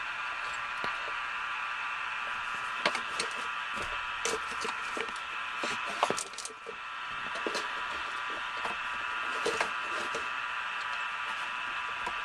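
CB radio receiver hissing with static, broken by scattered crackles and clicks, typical of a loose connection. The hiss drops briefly a little past the middle.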